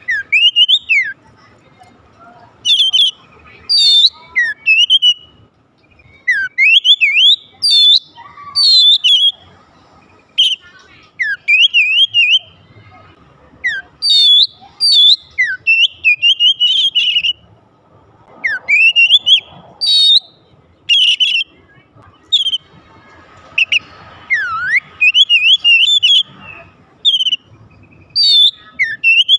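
Oriental magpie-robin singing: loud, varied whistled phrases and quick rising and falling runs, delivered in bursts of one to two seconds with short pauses between.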